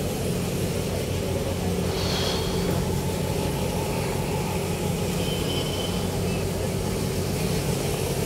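Steady drone of vehicle engines and traffic, with a low engine hum underneath.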